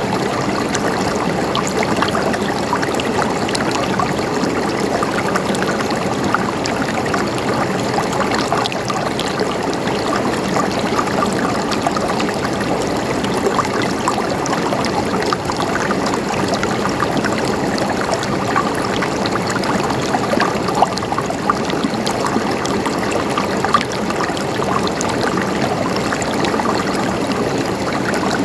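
Flowing water gurgling steadily, a continuous rushing with many small splashes and drips throughout.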